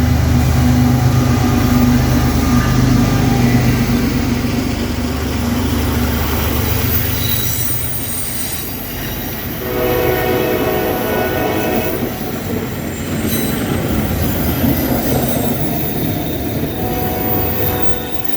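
A long CSX freight train rolling past, with a steady noise of wheels on rail. A deep rumble fades over the first few seconds, then high steel-wheel squeals ring out in patches through the middle and near the end.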